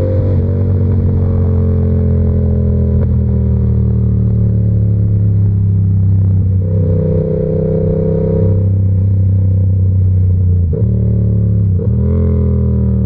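Yamaha R7's parallel-twin engine with an SC-Project aftermarket exhaust, running steadily under way with the bike's throttle held. It changes pitch partway through, and twice near the end the sound briefly drops and picks up again, as on quick gear changes.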